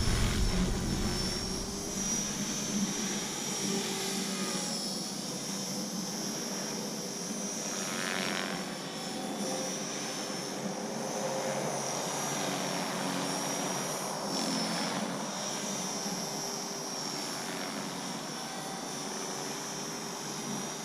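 Align T-Rex 450 electric RC helicopter in flight: a steady high whine from its brushless motor and spinning rotors, wavering slightly in pitch as it is flown.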